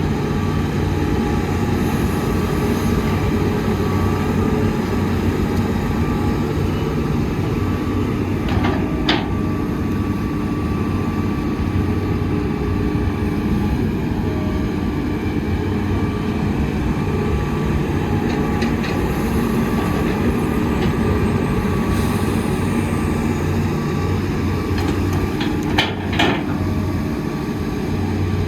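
Heavy diesel engine of an excavator running steadily under working load, with a few sharp metallic knocks about nine seconds in and again near the end.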